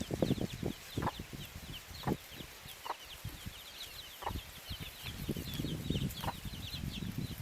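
Chickens clucking in short, separate calls a second or so apart, over a steady stream of rapid high-pitched chirps.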